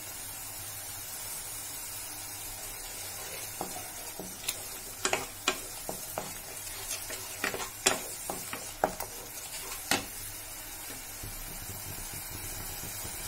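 Onion and tomato paste with cumin sizzling steadily in hot oil in a pan while it is stirred. A spatula scrapes and knocks against the pan in a run of sharp clicks from about four to ten seconds in.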